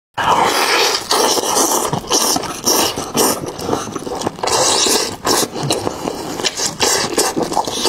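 Close-miked eating sounds of a person biting and chewing a sauced chicken leg: wet, crunchy chewing and mouth noises in loud, irregular bursts a few times a second.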